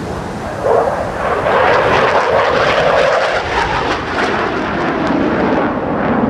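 Fighter jet's engine noise, a loud rushing roar that swells sharply about a second in and stays loud.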